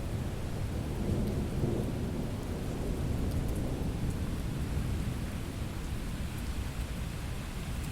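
Thunderstorm: steady rain with low rolling thunder that swells about one to three seconds in, with scattered drop ticks on top.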